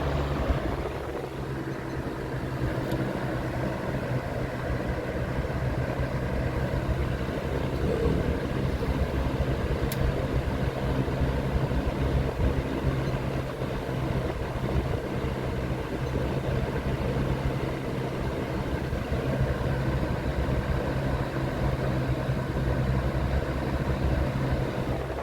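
1980 Lakewood S223 box fan running on medium speed: a steady motor hum under an even rush of air from the blades. It eases down in loudness about a second in as it settles from high speed, then runs steadily.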